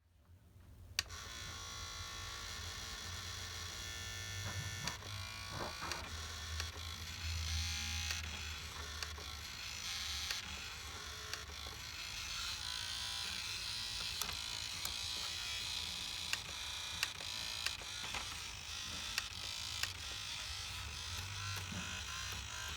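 A small electric motor buzzing steadily, with scattered sharp clicks and knocks.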